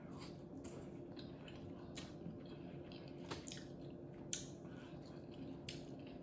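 A person chewing a mouthful of sauce-dipped seafood-boil shellfish, with soft wet mouth clicks and smacks scattered through, and finger-licking near the end.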